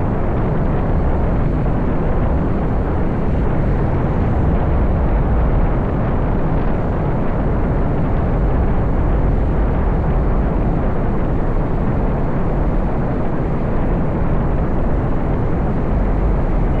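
Wind buffeting the microphone of a moving motorbike: a steady, loud, low rumble.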